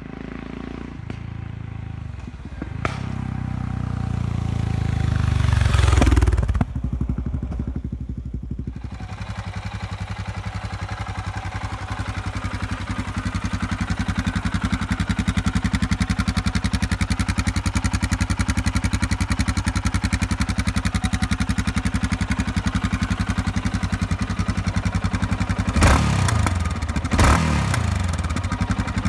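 Yamaha XT660Z Ténéré single-cylinder engine through an aftermarket or modified exhaust: it grows louder over the first six seconds and cuts back sharply, then idles with a steady, even beat. It is blipped twice near the end.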